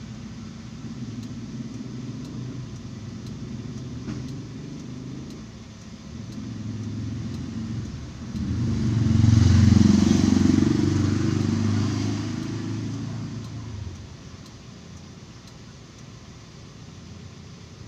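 Car engine running, with a swell in level and pitch from about halfway through that lasts some five seconds before dropping back to a steady hum.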